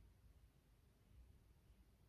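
Near silence: faint room tone with a low, steady rumble.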